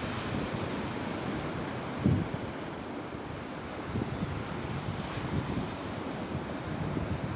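Sea surf washing on the shore, with wind buffeting the microphone in low gusts, the strongest about two seconds in.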